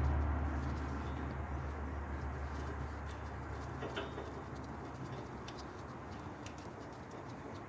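A low, steady machine hum that slowly dies away over about six seconds, with a faint click about four seconds in.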